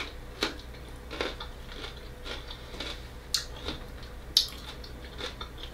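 A person chewing a bite of raw bell pepper, with crisp crunches coming irregularly several times, each under a second apart.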